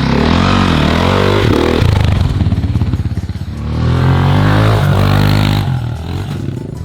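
Dirt bike engine revving hard as the bike is ridden, its pitch falling and climbing with the throttle. There are two loud stretches, the second from about 4 to 5.5 seconds in, after which it drops away.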